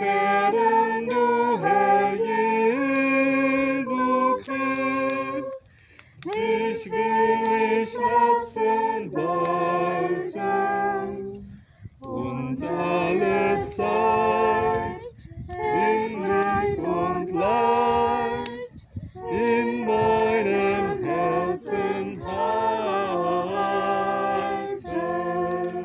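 Several voices singing a German hymn together a cappella, in sung phrases broken by short pauses for breath.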